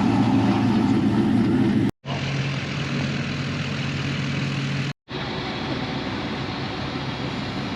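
A vehicle engine running steadily with a low hum, in three stretches broken by two abrupt cuts to silence.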